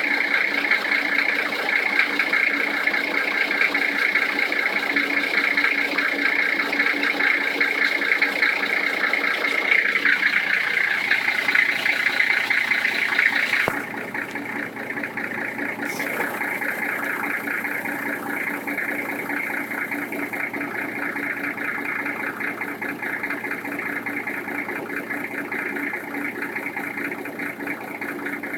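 Toyota 1HZ straight-six diesel engine idling cold, with a knock that shows when the engine is cold. About a third of the way through, the sound drops a little in level and turns duller.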